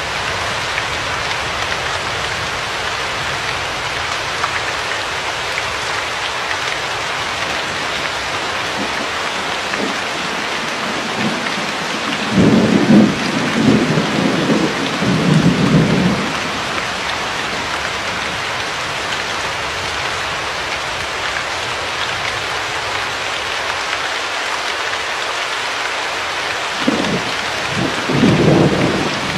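Steady rain falling, with thunder rumbling twice: a roll of several seconds about halfway through and a shorter one near the end.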